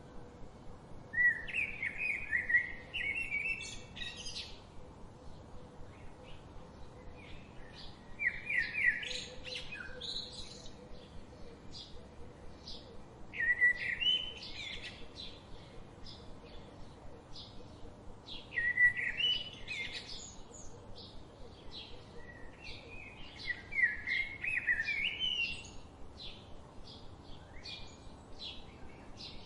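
A songbird singing: a quick, warbling phrase of about two to three seconds repeated about every five seconds, with short chip notes in between.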